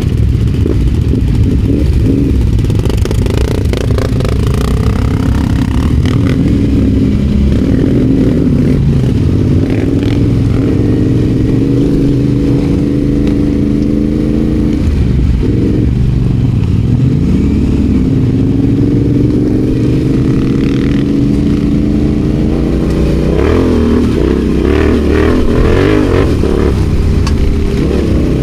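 Adventure motorcycle engine running under way, its revs repeatedly rising and falling with throttle and gear changes, with some clatter from riding over rough ground.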